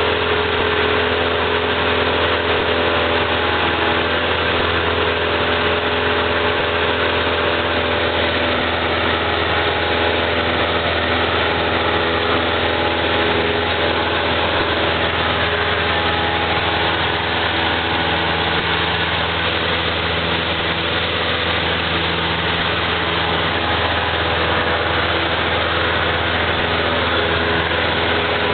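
Cessna 172's piston engine and propeller running steadily, with a constant drone and a dense rushing noise.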